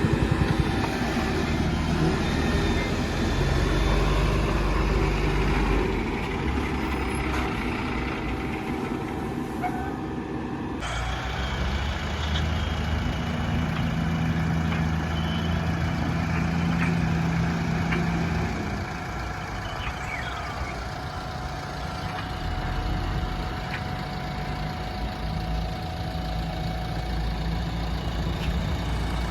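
Heavy diesel engine of a backhoe loader running while it works, its pitch rising and falling as the load changes. The sound changes abruptly about eleven seconds in.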